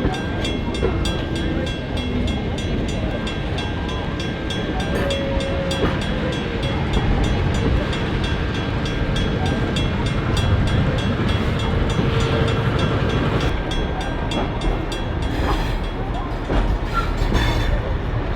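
A train running on the rails, a steady rumble with a fast, even run of clicks.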